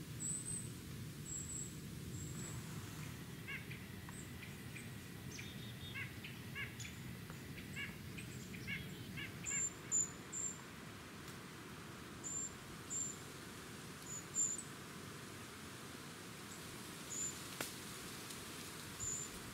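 Small birds calling in woodland: thin, high chirps repeated every second or so, and a run of lower, harsher call notes between about four and nine seconds in, over a steady low background rush.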